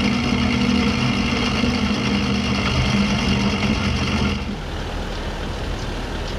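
A machine's engine running steadily with a droning hum. About four and a half seconds in it changes to a quieter, rougher rumble.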